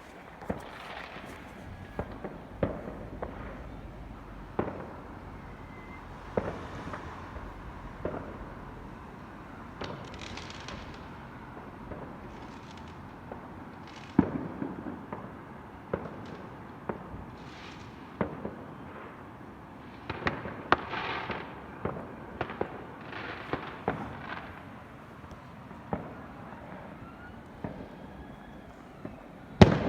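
Fireworks going off: a string of sharp bangs every second or two, some trailed by a brief hissing crackle, the loudest bang coming near the end.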